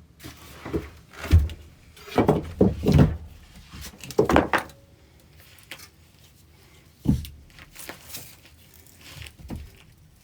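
Irregular wooden knocks and thuds in a small room: several close together in the first few seconds, then a single thud past the middle.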